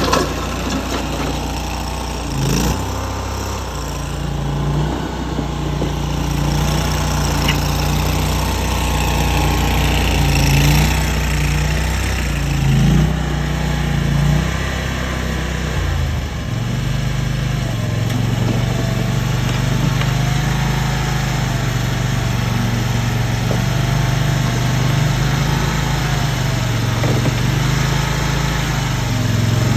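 Engine of a mini tracked skid steer running steadily while it works. Its pitch drops about halfway through, with a few brief knocks along the way.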